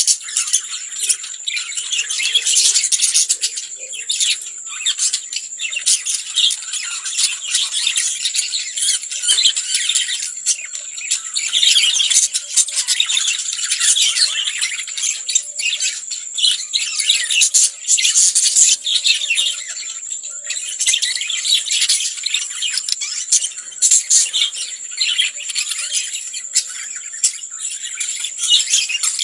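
Lovebirds chattering: a continuous stream of rapid, high-pitched chirps, squawks and clicks, with a steady high whine underneath.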